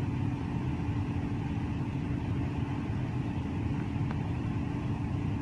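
Lincoln engine idling steadily with a constant low hum. After a throttle relearn and PCM reset it now runs with only slight shake, and the mechanic suspects the injectors or an ignition coil behind the remaining misfire.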